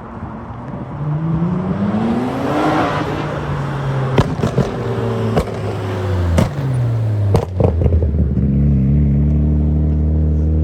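Car engine rising in revs and easing back, with several sharp cracks in the middle, then a loud, steady, low engine note close by from about eight seconds in.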